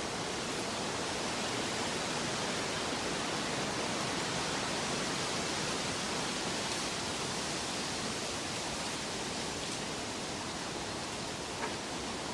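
Steady rushing water, an even hiss-like wash of sound without rhythm, with a faint tick near the end.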